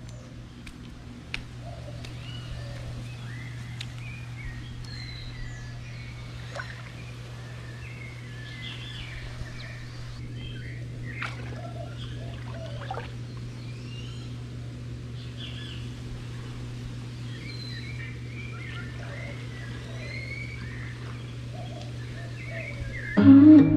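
Birds chirping and calling outdoors, many short chirps and whistles throughout, over a steady low hum. Music comes in suddenly near the end.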